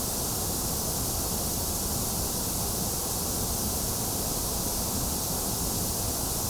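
Steady synthetic white noise: a constant, even hiss with no change in level, somewhat thinner in the middle of the range than in the highs and lows.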